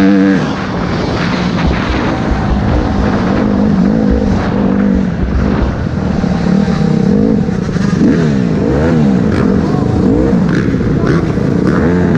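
Motocross bike engines revving up and down again and again through the gears, at times more than one engine heard at once.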